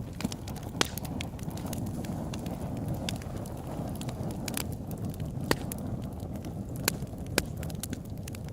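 Open-air campfire burning: a steady low rumble of flames with scattered sharp crackles and a few louder pops from the burning wood.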